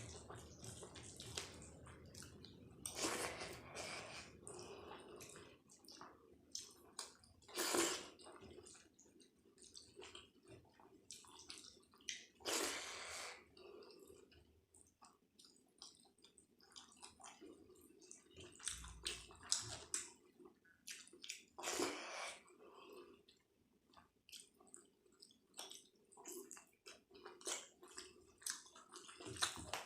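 Close-up eating sounds of dal and rice: wet chewing and squishing, with many small clicks and a few louder, noisier bursts.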